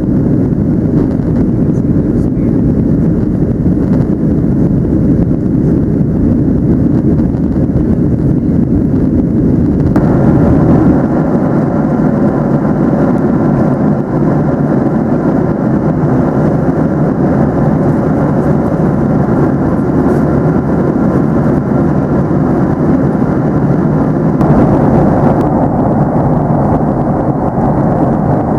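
Steady rushing cabin noise inside a Boeing 737-700, engine and airflow noise together. The sound turns brighter and hissier abruptly about ten seconds in, and again near the end.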